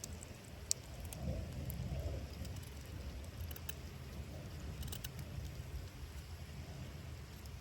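Campfire crackling, with a few sharp pops over a low steady rumble.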